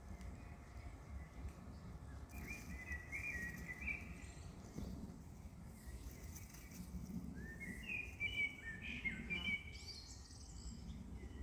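Small bird chirping and warbling in two short bursts, one about two seconds in and a louder one near the end, over a low steady outdoor rumble.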